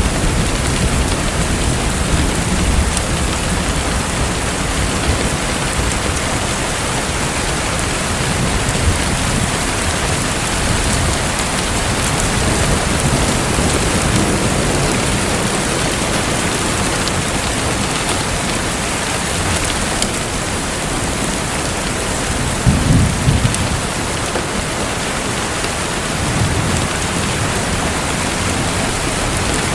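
Steady rushing, splashing water with no pauses, and a brief low rumble about two-thirds of the way through.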